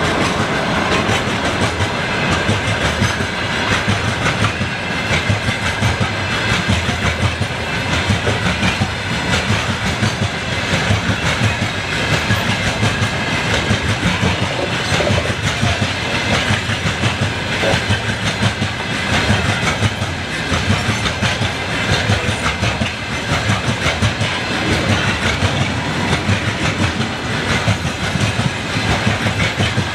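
Freight train wagons rolling past, the wheels clicking steadily and rhythmically over the rail joints.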